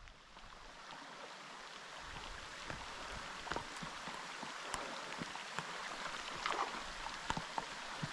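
Rain falling over a mountain creek's steady rush, with scattered raindrops tapping sharply close by; the sound builds over the first couple of seconds.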